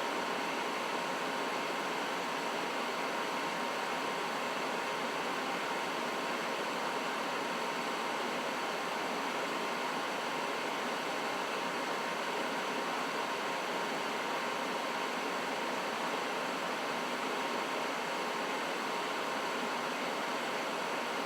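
Trane XB80 gas furnace running steadily: an even rushing of air from the blower, with a faint steady whine.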